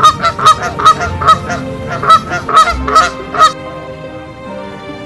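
Geese honking: a rapid series of about ten loud honks, two to three a second, which stops about three and a half seconds in. Faint background music continues underneath.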